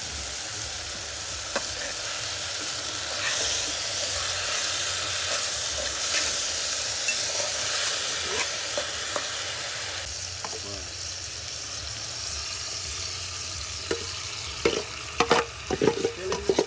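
Seasonings (garlic, onion, pepper and tomato) sizzling in hot oil in a cooking pot, stirred with a spoon. There is a steady frying hiss with small clicks, and a few sharper knocks near the end.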